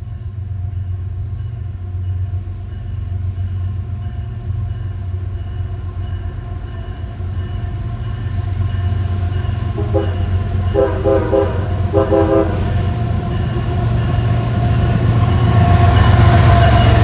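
Diesel locomotive approaching, its low engine rumble growing steadily louder. About ten seconds in, its horn sounds three short blasts in quick succession.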